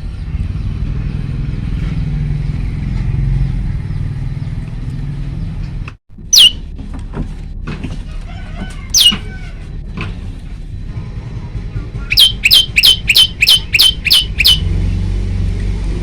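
Male tailorbird (prenjak lumut) calling: two single sharp, falling notes, then a quick run of about ten of the same notes near the end, about four a second, over a steady low rumble.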